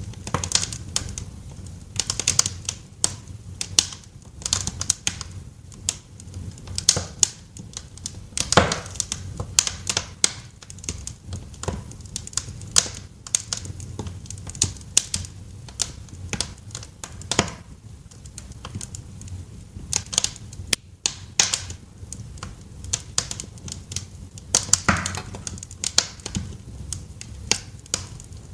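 Wood fire crackling in a fireplace: irregular snaps and pops over a low steady rumble.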